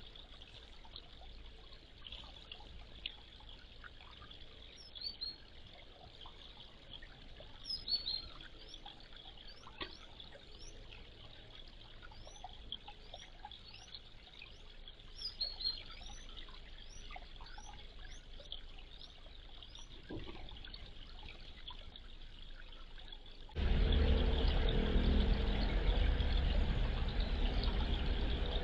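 Short, high, rising bird chirps every few seconds over a faint steady hiss. Near the end a much louder steady rushing noise cuts in abruptly.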